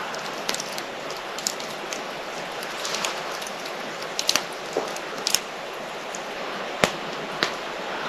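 Campfire crackling: a steady hiss with scattered sharp pops at irregular intervals, the loudest pop a little before the end.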